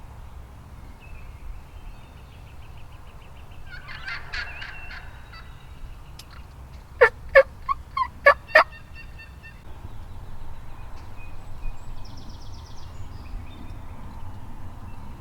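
Wild turkeys gobbling and calling in the field. A rattling call comes about four seconds in. The loudest sound is a run of six sharp, loud calls about seven to eight and a half seconds in.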